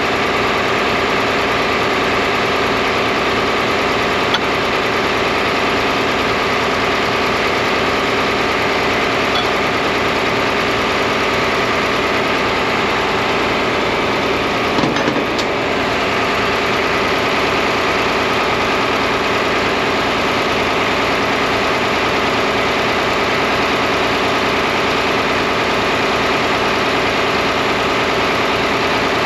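John Deere 4010 tractor engine idling steadily with an even throb. A short knock comes about fifteen seconds in.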